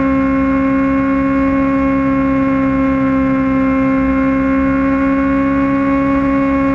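Kawasaki Ninja ZX-6R inline-four engine running at steady high revs under way, its note holding one pitch, over a low wind rumble.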